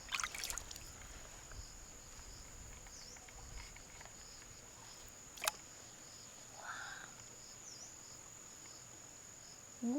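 Faint, steady high-pitched insect trilling, with a few sharp clicks in the first half-second and a single click about five and a half seconds in.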